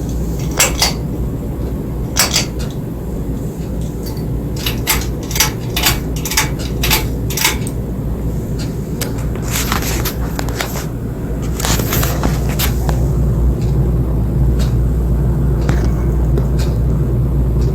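Ceiling fan running: a steady low rumble with sharp clicks and knocks on top of it, irregular at first, then about two a second for a few seconds, then scattered again.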